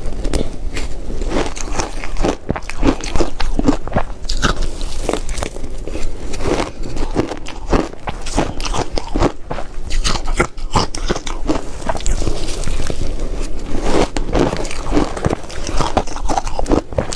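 Ice being bitten and chewed, a continuous run of loud, irregular crunches.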